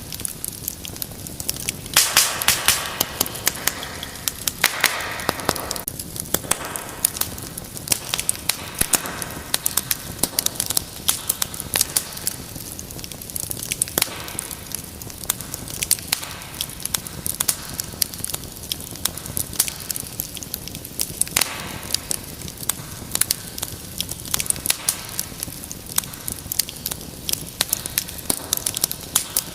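Wood fire burning in a fireplace: a steady hiss with many irregular sharp crackles and pops, and a few louder hissing flare-ups.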